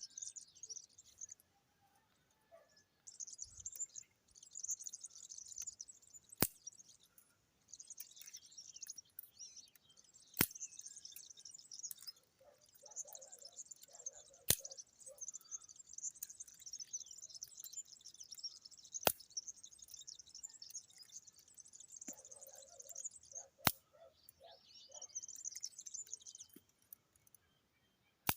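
Birds chirping and twittering in long stretches, broken by short pauses. A sharp click cuts through about every four seconds.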